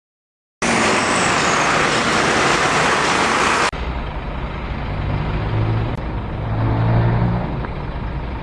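Road traffic noise: a steady rushing noise that cuts abruptly a few seconds in to a lower rumble with a wavering hum, like an idling engine.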